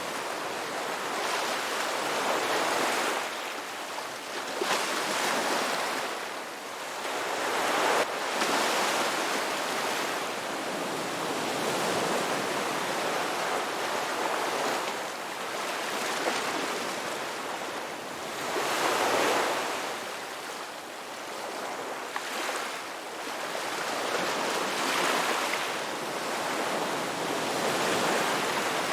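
Ocean waves washing onto a beach: a steady surf hiss that swells and fades every few seconds as each wave breaks and runs up the shore.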